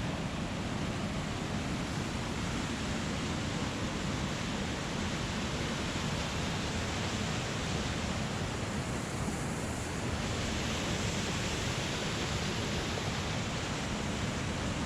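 Steady rushing of a creek waterfall's big drop, running high after a day of rain.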